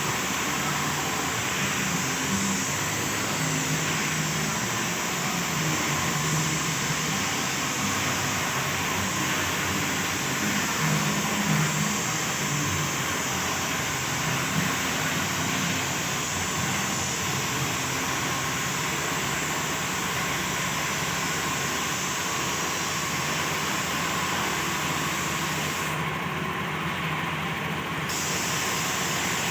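A motor runs steadily under a continuous spray hiss, as from a compressor-fed spray gun laying on paint. The hiss drops out briefly near the end, as when the gun's trigger is released.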